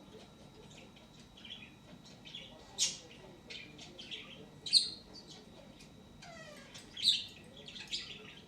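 Budgerigar chirping in a run of short, high calls, with three louder chirps spread through and one falling call near the end.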